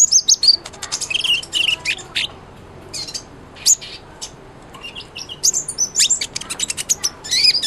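Kolibri ninja sunbird singing: rapid, high-pitched twittering chirps and short trills in dense runs, with a lull of about a second and a half in the middle before the song picks up again.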